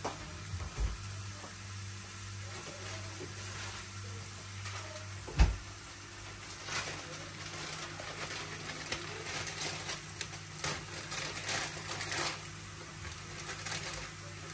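Spice-coated chicken sausage slices shallow-frying in coconut oil: a soft sizzle with crackling pops that come thicker in the second half. Two sharp thumps, about a second in and around five and a half seconds in, over a steady low hum.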